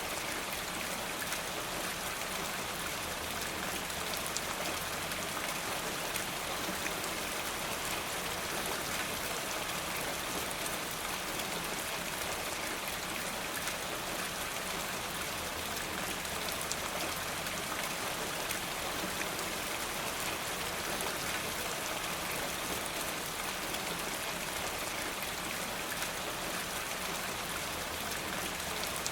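Steady rain falling, an even hiss with many fine scattered drop ticks.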